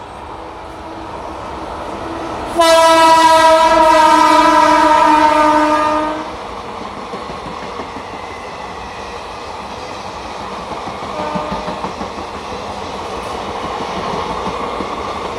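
An Indian Railways express train with passenger coaches runs through the station on the near track, its wheels rumbling and clattering over the rails. About two and a half seconds in, a loud train horn sounds for about three and a half seconds, dropping slightly in pitch as it ends.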